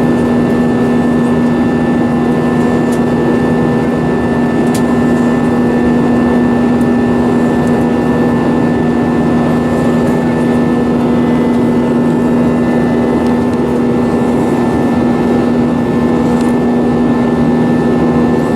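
Steady drone of an Airbus A320's jet engines and rushing air, heard inside the passenger cabin, with a strong constant low hum.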